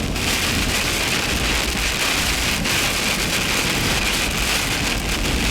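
Heavy, near-blinding rain pelting a car driving through a thunderstorm. It makes a dense, steady hiss over a low, steady rumble.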